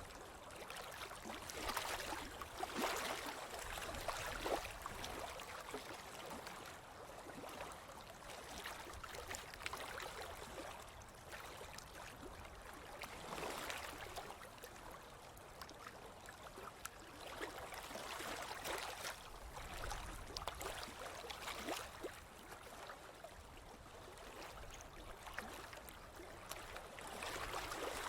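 Ocean waves washing onto a beach: a steady hiss of surf that swells and eases every several seconds as waves break and run up the sand.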